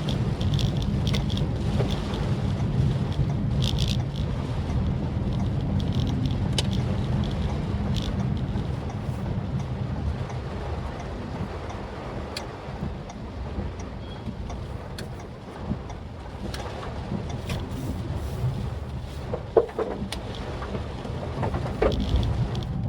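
Maruti Suzuki Swift Dzire driving in rain: a steady low engine and road rumble with scattered raindrop taps on the car, and one sharper tap about three-quarters of the way through.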